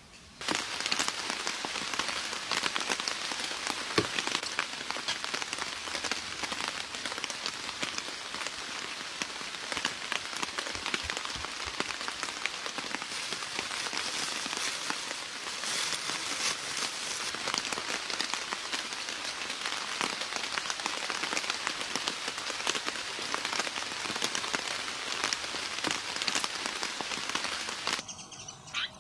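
Steady rain falling: a dense hiss of many small drop impacts that starts abruptly about half a second in and cuts off abruptly about a second before the end.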